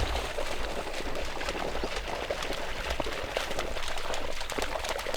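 Continuous splashing and rustling of movement through shallow floodwater and weeds, with many small splashes and crackles.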